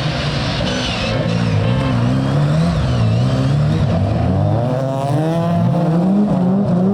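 Rally car engine at high revs, the pitch climbing and dropping several times as the driver changes gear and lifts off.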